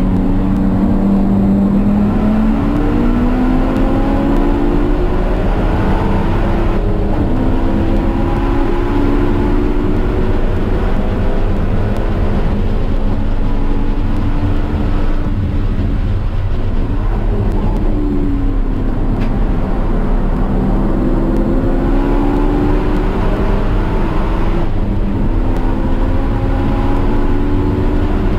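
A car's engine at speed on a race track, heard from on board: its pitch climbs for several seconds at a time under acceleration and drops back at gear changes and braking, several times. A steady low rumble of road and wind noise runs underneath.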